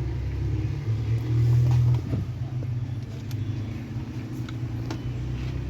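Low, steady hum of a running refrigerator compressor, drawn through a repaired start circuit with a new PTC relay, swelling briefly about a second in. A few light clicks sound over it.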